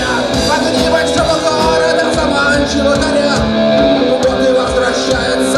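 Rock band music with guitar and a steady drum beat.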